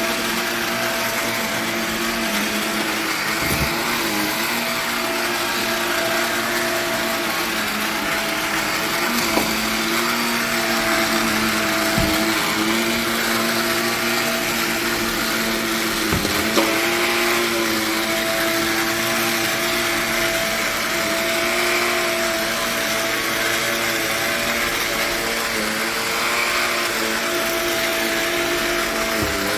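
Carpet-cleaning suction machine's vacuum motor running steadily: a constant whine over a rushing hiss, with a few brief clicks.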